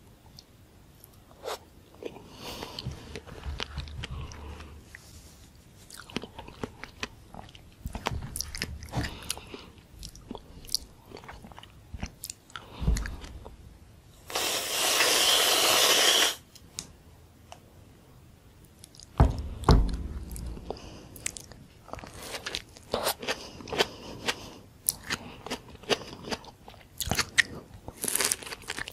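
Close-miked biting and wet chewing of soft fruit slices: red dragon fruit, then a tomato slice topped with whipped cream. About fourteen seconds in, an aerosol whipped-cream can sprays with a steady two-second hiss. Dull knocks sound twice, the louder about twenty seconds in.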